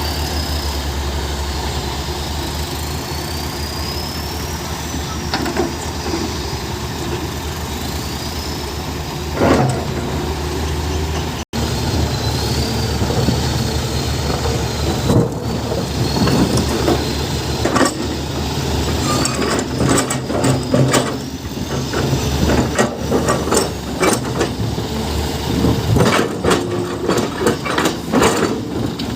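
Heavy diesel engine of a Tata Hitachi excavator running steadily, with a thin high whine that wavers up and down. After an abrupt cut about 11 seconds in, repeated knocks and rattles come over the engine.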